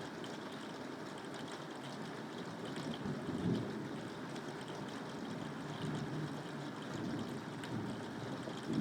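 Steady rain falling, with faint drop ticks, and a brief low rumble of distant thunder about three and a half seconds in.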